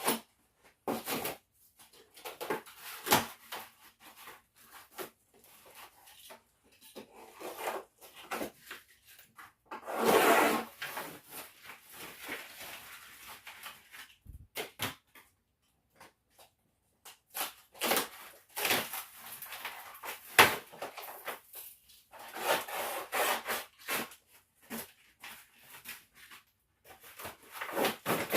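Hand work on a wooden door to fit a lock: irregular knocks, clicks and scraping or rubbing strokes, with one longer, louder scrape about ten seconds in.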